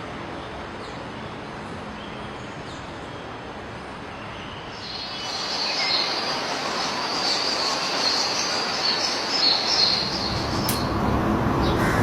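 Small birds chirping densely over a steady background noise, the chirping starting about five seconds in and stopping shortly before the end.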